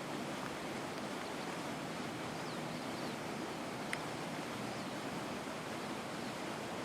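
Steady outdoor background hiss, with a few faint, high bird chirps about halfway through and a single short tick about four seconds in.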